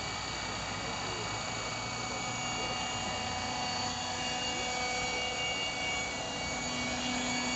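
Compass Atom 500 electric RC helicopter running with its rotors spinning: a steady multi-tone whine from the brushless motor and gears over rotor noise, with a lower tone joining near the end.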